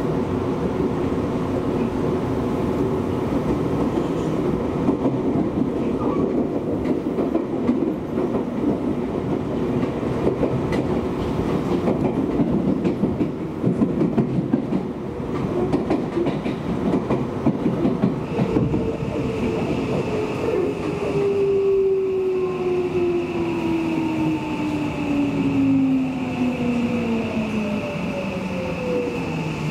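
Electric commuter train running on the rails, with rumble and the clickety-clack of wheels over rail joints. About two-thirds of the way through, the traction motors' whine starts and falls steadily in pitch as the train slows.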